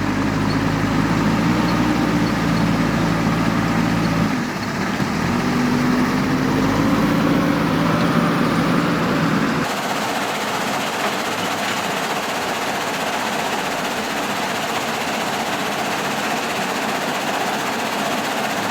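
Heavy diesel engine of earthmoving machinery running and revving, its pitch rising and falling, with a brief dip a little over four seconds in. About halfway through it cuts abruptly to a steady, even noise with no engine note.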